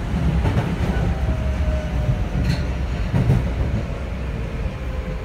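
Running sound inside a Kintetsu 7000 series train car: a steady low rumble of wheels on rail, with the faint whine of its Hitachi GTO VVVF inverter drive drifting slowly lower in pitch. Two short knocks from the track come about two and a half and three seconds in.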